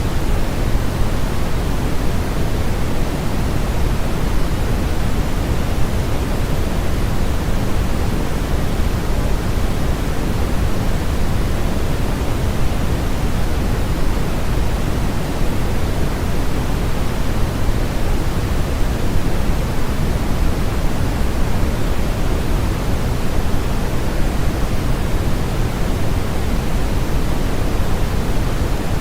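Steady, unbroken synthetic noise played as a sleep and focus aid: an even static-like hiss, fuller in the lows than in the highs, with no changes.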